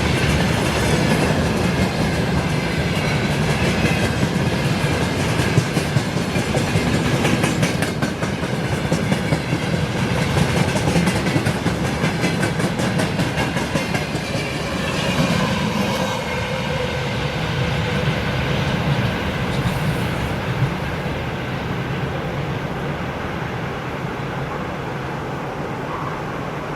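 Freight train wagons rolling past, with the rapid clickety-clack of wheels over rail joints; about 20 seconds in the sound starts to fade as the end of the train goes by.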